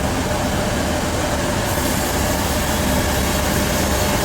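Sawmill machinery running steadily: a loud, even mechanical rumble with a faint steady whine.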